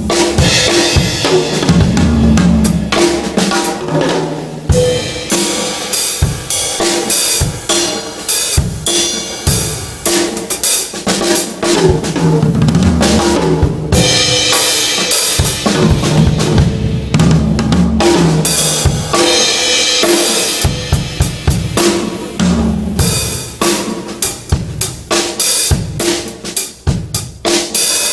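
Drum kit played continuously, with kick drum, snare and cymbal hits in a busy pattern.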